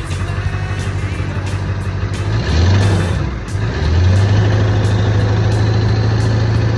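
1999 7.3-litre V8 turbodiesel running just after a cold start. Its note rises briefly about two and a half seconds in, then rises again at about four seconds and holds there until near the end.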